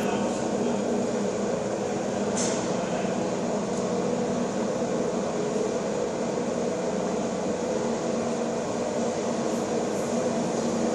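MÁV M47 diesel locomotive's Pielstick engine running at a steady pace, a dense, even drone with a few brief faint hisses.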